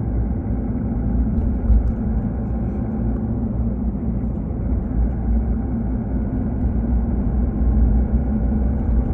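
A car driving along, its road and engine noise a steady low rumble.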